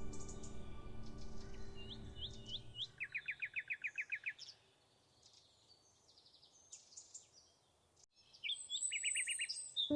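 Songbirds singing: a few rising whistled notes, then a fast trill of about ten notes around three seconds in, and another trill with high thin notes near the end, after a quiet stretch. Soft music tones fade out in the first few seconds.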